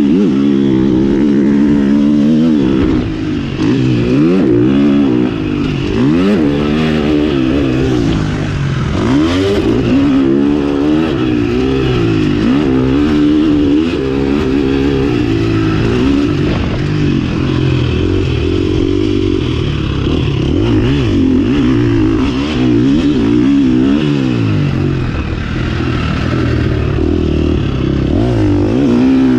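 2020 KTM 350 SX-F motocross bike's single-cylinder four-stroke engine running hard, its pitch rising and falling over and over as the throttle is opened and closed, with a brief dip about three seconds in.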